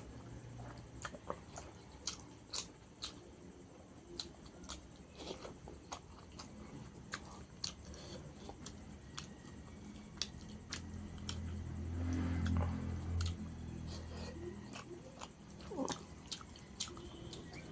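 Close-up eating sounds of someone chewing rice and tilapia fish curry: wet chewing and lip smacks, a string of short clicks. A low hum swells for a few seconds about halfway through.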